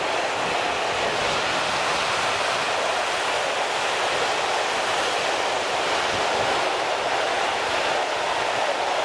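Container flat wagons of a freight train rolling past on the rails: a steady rolling noise of wheels on track.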